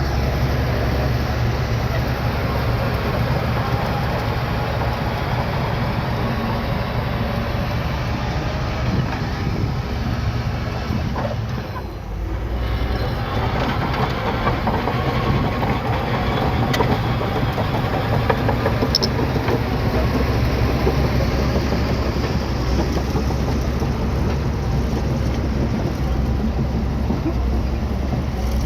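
Bulldozer's diesel engine running steadily under work, with a brief dip in level about twelve seconds in.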